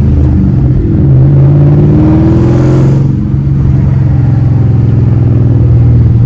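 Supercharged 2001 Ford SVT Cobra 4.6-litre V8 running loud through long-tube headers and an X-pipe with the mufflers deleted, heard from inside the car. It pulls up in pitch, drops back around a second in, pulls up again, then holds a steady drone from about three seconds in.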